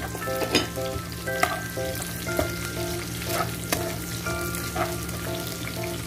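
Chopped onion, garlic and chili sizzling in hot oil in a metal wok while a metal ladle stirs them, with irregular clinks and scrapes of the ladle against the pan.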